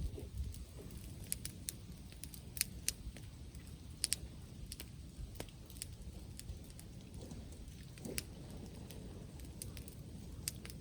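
Wood fire crackling, with irregular sharp snaps, over a low rumble of wind on the microphone.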